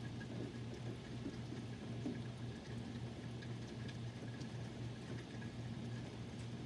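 Steady rain falling, with scattered faint drip ticks and a low steady hum underneath.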